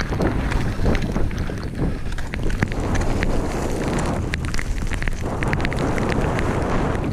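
Wind buffeting a GoPro's microphone during a downhill ski run, over the steady hiss and scrape of skis on snow, with frequent small sharp ticks.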